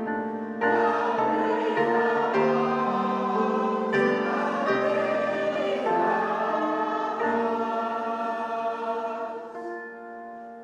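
Congregation singing a hymn in held, stepwise notes, with instrumental accompaniment, easing off to a quieter pause in the last second.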